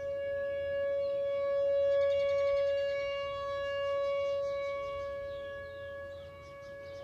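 Outdoor tornado warning siren sounding a steady single tone, its volume swelling to a peak about two seconds in and then slowly fading as the siren rotates. Birds chirp in the background.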